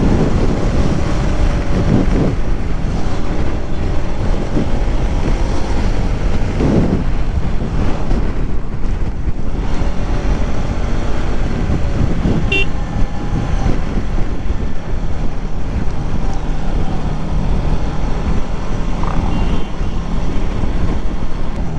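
Bajaj Pulsar NS200's single-cylinder engine running while riding, its pitch rising and falling with the throttle, with wind noise on the microphone.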